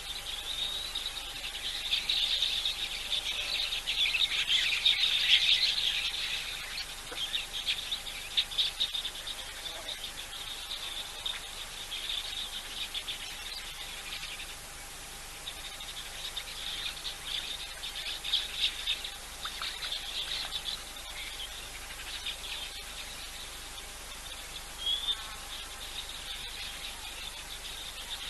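Wild birds chirping and calling over insect trilling, with dense bursts of chirps about two to six seconds in and again around sixteen to twenty seconds, and a short whistled note near the end. A faint steady tone runs underneath.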